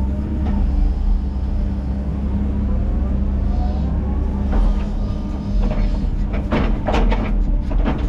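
Heavy diesel earthmoving machine running steadily, with a rising whine in the middle. From about halfway on come metal clanks and squeals.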